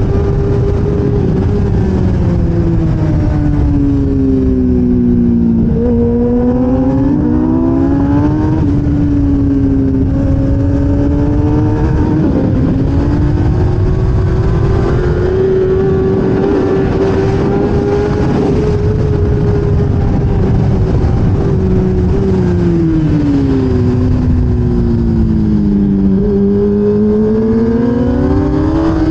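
1000cc superbike engine at racing revs with wind rush past the bike. Twice the revs drop, stepping down through downshifts under braking for a corner, then climb again under throttle, holding high between the two corners.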